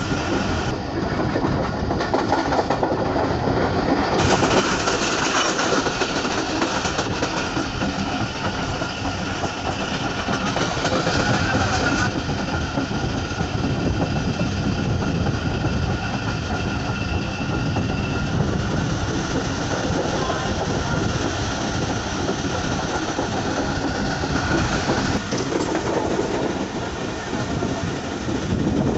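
Moving passenger train heard from the open door of a coach: a steady rumble with the rhythmic clickety-clack of the wheels over the rail joints.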